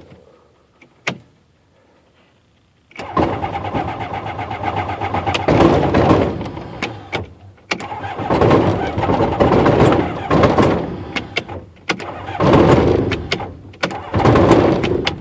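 Rotax aircraft engine being cranked by its electric starter, starting about three seconds in after a single click. The cranking comes in loud, uneven surges as the propeller is dragged round and stalls without the engine catching; the owner blames a slipping starter clutch.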